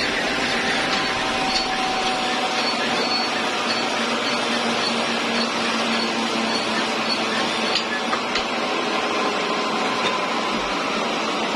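Sawmill machinery running steadily, giving an even, continuous mechanical noise with a faint steady hum and a few light ticks.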